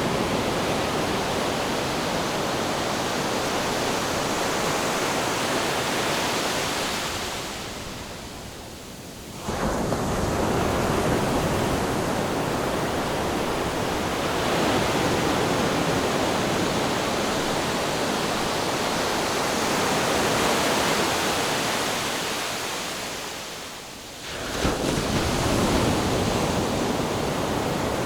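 Ocean surf: a continuous rush of waves washing in. Twice the wash dies away over a couple of seconds, then comes back all at once, as a new wave breaks.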